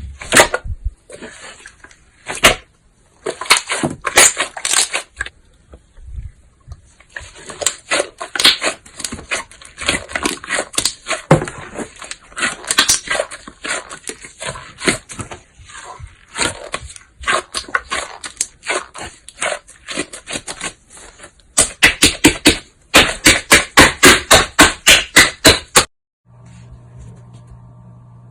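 Hands kneading and squishing slime, making a string of sticky pops and crackles, with a fast run of about four loud pops a second near the end. The popping stops suddenly, leaving a faint steady hum.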